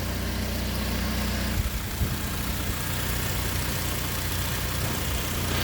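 2012 Mercedes-Benz C250's turbocharged four-cylinder idling through a catless downpipe with the turbo muffler deleted, a steady low exhaust note. About a second and a half in the idle goes briefly unsteady with a few small jumps, then settles again.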